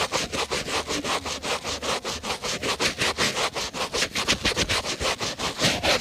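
A shoe being buffed with rapid, even back-and-forth strokes, about five or six a second.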